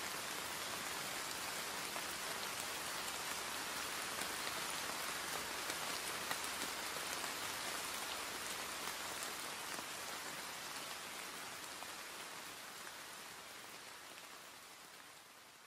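Steady rain falling and pattering on surfaces, a dense even hiss with fine drop crackle, fading out slowly over the last few seconds.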